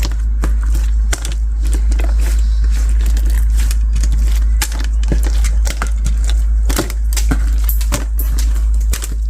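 Translucent bead slime being squeezed and pressed, with the beads giving off dense, irregular crackles and clicks over a steady low hum.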